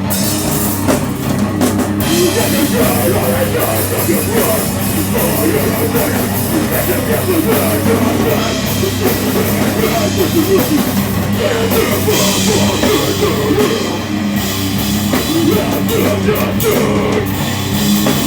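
A heavy rock band playing live, loud and continuous, with distorted guitars, bass and pounding drums with crashing cymbals.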